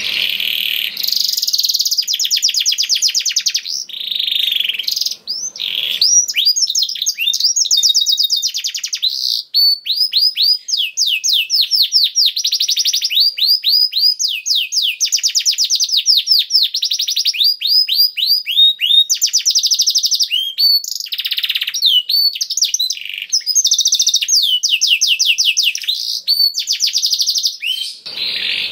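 Domestic canary singing a long, continuous song of fast trills and rapid runs of repeated down-slurred notes, with only brief pauses between phrases.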